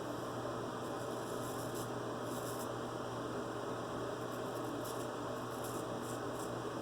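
Vintage Joseph Allen and Sons straight razor scraping through lathered stubble in short faint strokes, a few about a second and a half in and a cluster near the end, over a steady electrical hum and hiss.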